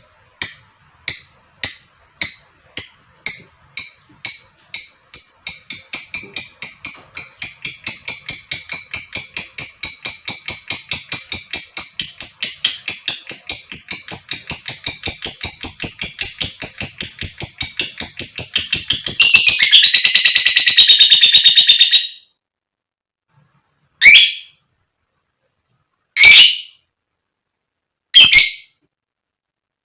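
Female lovebird calling: short sharp chips about two a second that speed up into a fast, unbroken ticking and then a dense chattering trill, which cuts off suddenly after about twenty seconds, followed by single squawks about every two seconds.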